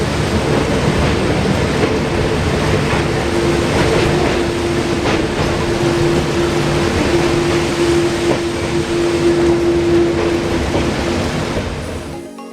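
Passenger train running on the track, a steady rumble of wheels on rail with scattered clicks over rail joints. A single steady tone is held for several seconds through the middle, and the sound drops away near the end.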